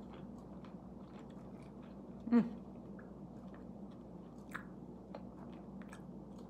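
A person chewing a bite of plant-based Italian sausage with its mouth close to the microphone: small wet clicks and smacks throughout. A short hummed sound falling in pitch comes about two and a half seconds in.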